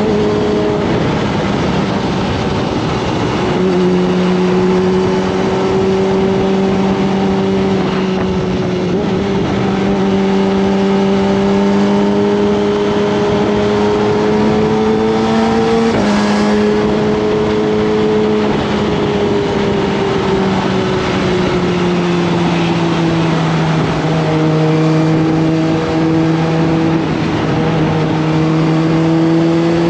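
Kawasaki ZX-25R's 250 cc inline-four engine running under way at steady mid revs. Its pitch creeps up slowly and drops suddenly a few times, as with upshifts, and eases down once as it slows.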